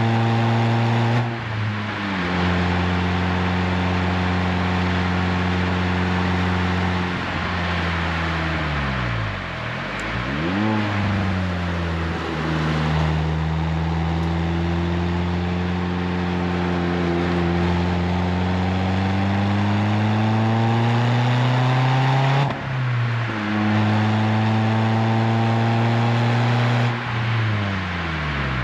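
Renault Twingo RS Gordini's four-cylinder engine through an Inoxcar 80 mm stainless steel aftermarket exhaust, driving on the road. The engine note holds steady, drops and climbs again with each gear change or lift of the throttle, and rises slowly under acceleration through the middle.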